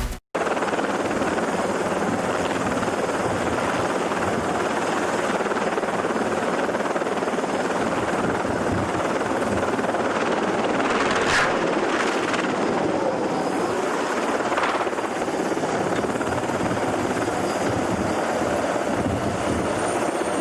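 Helicopter running: a steady, even drone of rotor and engine noise that holds at one level throughout.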